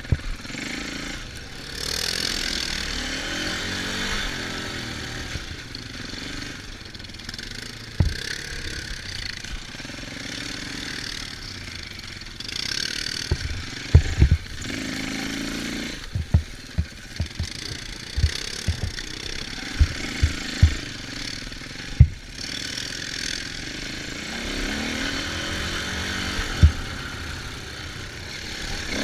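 Off-road dirt bike and four-wheeler engines running and revving up and down during riding. A run of sharp low thumps comes in the middle.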